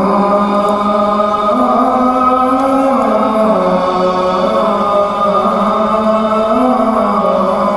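A muezzin's voice chanting the Fajr (dawn) adhan, the call to prayer: one long melismatic phrase, held notes stepping and sliding up and down in pitch, with a brief dip about five seconds in.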